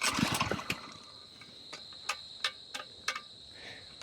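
Small Lifan 2.5 hp four-stroke engine, fuelled with two-stroke mix, turning over in a start attempt: a quick burst of chugging right at the start that dies out within about half a second without catching. Scattered light clicks follow, over a steady chirping of crickets.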